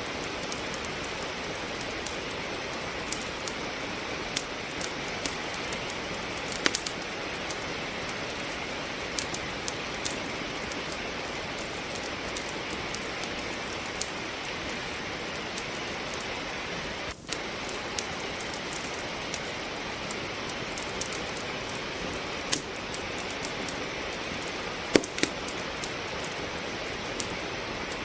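Steady rainfall with a wood fire crackling in a fireplace: a constant hiss of rain with irregular sharp pops and snaps from the burning logs, the loudest pop coming near the end. The sound drops out for a split second just past halfway.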